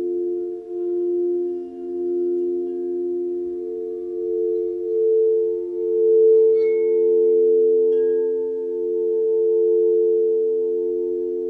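Sound-healing drone of several sustained pure tones held together, each slowly swelling and pulsing. Two faint, brief chime-like pings ring out over them about two-thirds of the way through.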